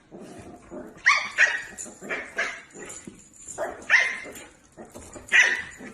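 A dog barking about six times in short, sharp barks, some coming in quick pairs.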